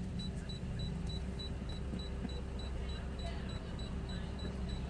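Car engine idling, heard from inside the cabin, with a faint high beep repeating about three times a second.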